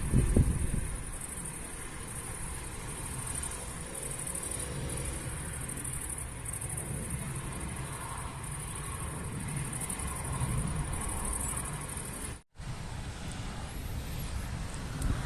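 Outdoor ambience: a low vehicle rumble under a steady, high-pitched, insect-like chirring. About twelve seconds in, everything cuts off at a sharp break, then a different, windier outdoor ambience follows.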